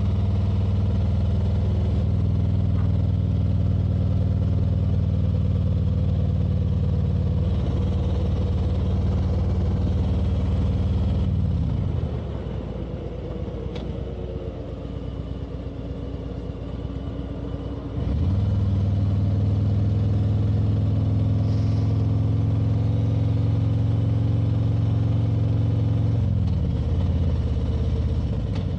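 Motorcycle engine running steadily under way. About twelve seconds in, the throttle eases off and the note drops and quietens for about six seconds, then it picks up again sharply. There is another short dip near the end.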